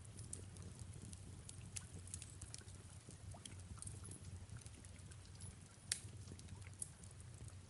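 Wood fire crackling in a fireplace: irregular sharp pops and snaps, one louder pop about six seconds in, over a low steady rumble.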